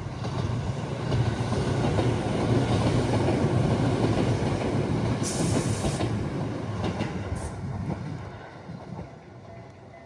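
A train passing close by: a rushing rumble that swells, holds for several seconds, and fades away near the end, with a brief high hiss about five seconds in.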